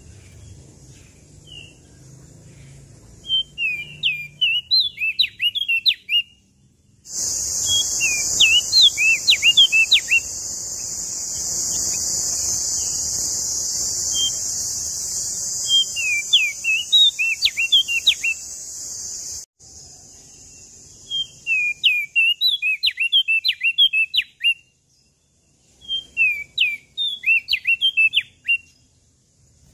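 A small songbird, a prenjak daun, sings five bursts of rapid, high chirping notes that swoop up and down, each burst lasting two to three seconds with short gaps between them. From about seven seconds in until about halfway through, a steady hiss runs under the song and then cuts off suddenly.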